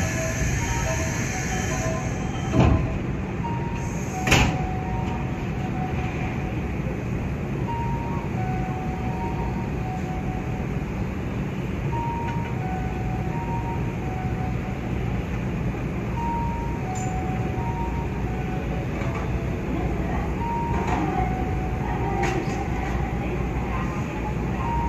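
Nankai 8300 series electric commuter train running, with a steady rumble of wheels on rail and two sharp clunks about three and four and a half seconds in. Faint short tones alternate between two pitches.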